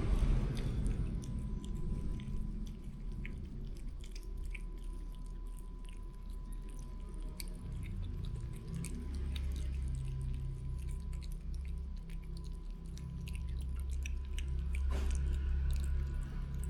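A cat chewing food close to the microphone: a run of small, quick, irregular clicks.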